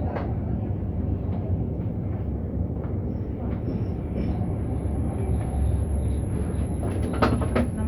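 Steady rumble of a moving suburban train heard from inside the carriage, with light clicks and a pair of sharp knocks near the end as the wheels pass a rail joint.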